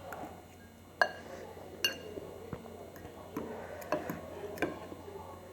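Spoon clinking and tapping against a bowl several times during eating, one strike ringing briefly.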